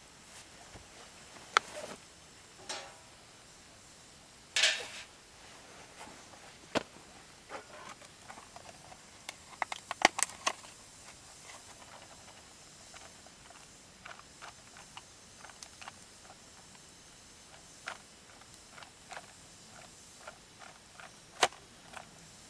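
Scattered sharp clicks, taps and knocks over a quiet background, with a quick run of them about ten seconds in.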